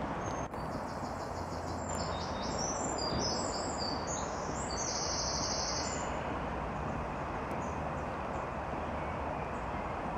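Small songbirds singing short, high chirping phrases over a steady background hiss and rumble of outdoor noise. The birdsong stops about six seconds in.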